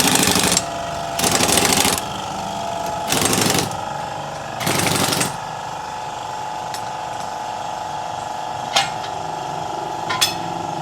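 Pneumatic impact wrench fired in four short rattling bursts, spaced a second or two apart, over a steady background hum; two sharp clicks follow near the end.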